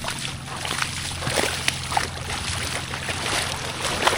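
Water sloshing and splashing with scattered light knocks, over a steady low hum.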